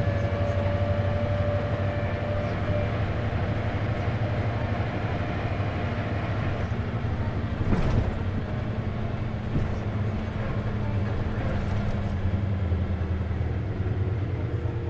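Isuzu KC-LV380N city bus heard from inside, its diesel engine running with a steady low hum; a faint whine fades out in the first few seconds and a single thump comes about eight seconds in.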